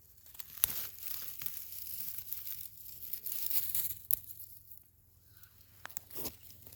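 Dry rustling and crackling, with scattered sharp snaps, like forest-floor litter and twigs being disturbed. It is busiest for the first four seconds, then fades to a few isolated snaps about six seconds in.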